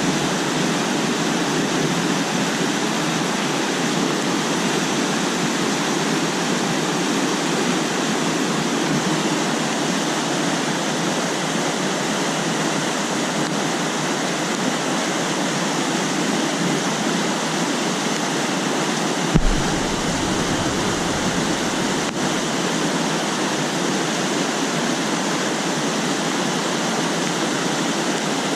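Steady rush of a small mountain river running high in monsoon flood, with one brief low thump about two-thirds of the way through.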